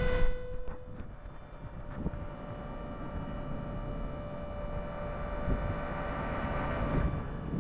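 A vehicle engine running steadily, a low drone with a faint steady tone; it is louder for the first half second, then settles.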